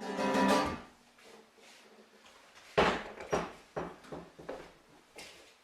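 A short plucked-string note that rings and fades over the first second, then a quick run of light knocks and clatters in a small room.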